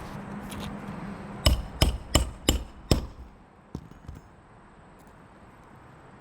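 Hammer driving roofing nails into asphalt shingles: five sharp strikes in quick succession, about three a second, then one lighter tap.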